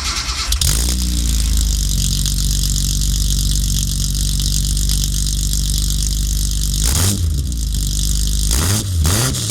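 Datsun 240Z's L28 straight-six engine, on dual carburetors, idling steadily, then blipped with a quick rev about 7 s in and two more revs near the end.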